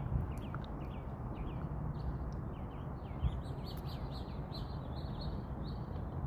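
Small birds chirping repeatedly in short, quick, downward-sliding notes, over a steady low rumble.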